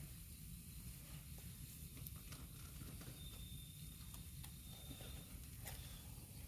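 Firewood burning in a fire pit: faint scattered crackles and pops over a low steady hiss. A thin high whine lasts about two seconds in the middle.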